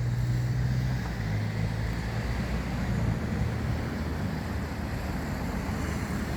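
A steady rumble and hiss, like a vehicle running, with a low hum that shifts in pitch. It starts abruptly, cutting in where the piano music ends.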